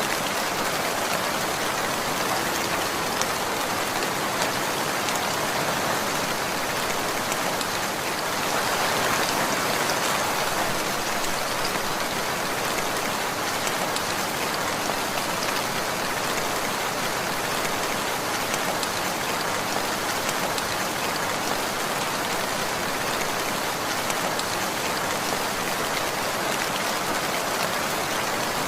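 Steady rainfall, a dense patter of raindrops on a surface, swelling slightly about a third of the way in.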